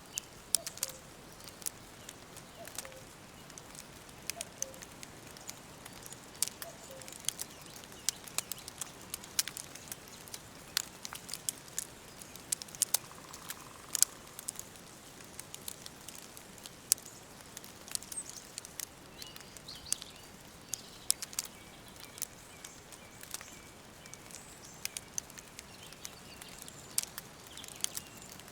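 Wood fire crackling, with sharp pops coming irregularly several times a second over a faint hiss. Faint bird calls come and go in the background.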